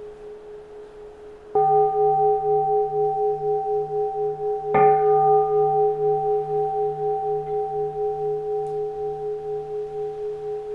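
Keisu, a bowl-shaped Zen temple bell, struck twice about three seconds apart, each stroke ringing on long with a slow, pulsing waver in its tone.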